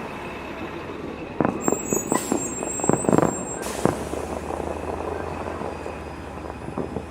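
Fireworks shells bursting at a distance: a quick cluster of bangs between about one and a half and four seconds in, then a few fainter pops, over a steady low background rumble.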